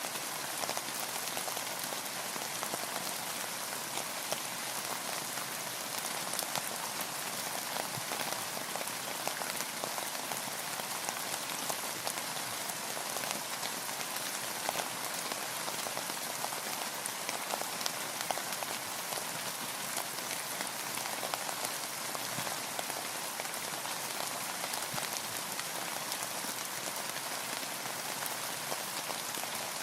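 Steady rain falling on a boat and the water around it, a dense, even patter of many small drop ticks.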